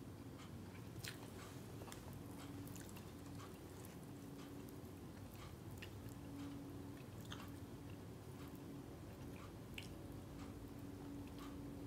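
Quiet chewing and small wet mouth clicks of someone eating rice and roast chicken by hand, irregular and spread through the whole stretch. A faint low hum comes and goes behind it.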